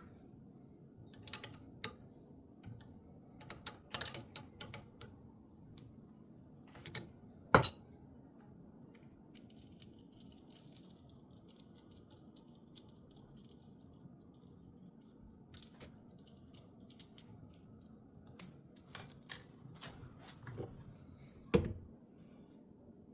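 Scattered metallic clinks, taps and rattles of hand tools and metal parts being handled during motorcycle suspension work, with two sharper knocks, one about a third of the way in and one near the end.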